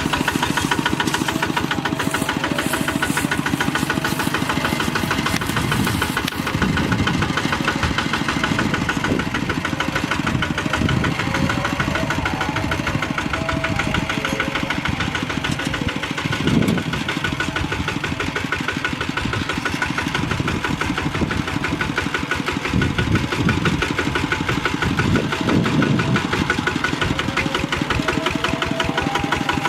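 Bulldozer's diesel engine running steadily with a rapid, even firing rhythm, swelling briefly a few times.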